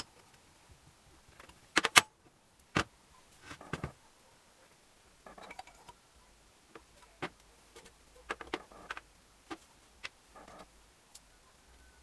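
Scattered clicks and clinks of small metal parts and hand tools being handled during engine assembly, with a sharp pair about two seconds in as the loudest.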